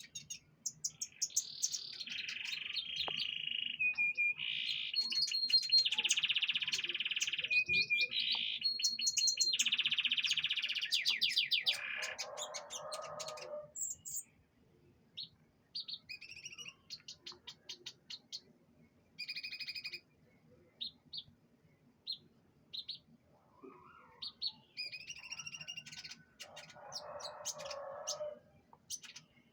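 Canary singing: a long run of fast trills and held high whistled notes for the first twelve seconds or so, then scattered short chirps, and another short burst of song near the end.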